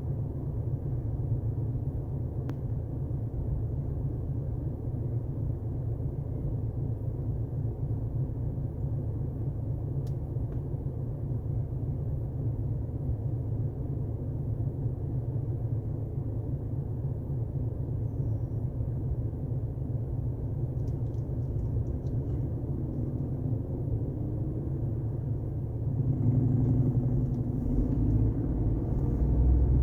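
Car driving on a highway, a steady low road rumble that grows louder near the end.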